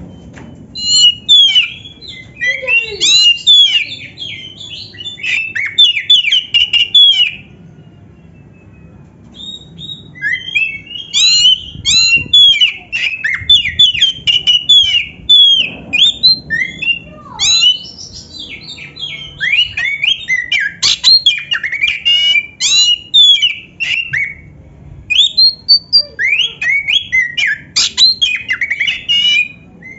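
Oriental magpie-robin (kacer) singing a long, varied song of rapid whistles and chattering phrases, filled with canary-like notes. The song comes in bursts, with a pause of about two seconds near a third of the way in.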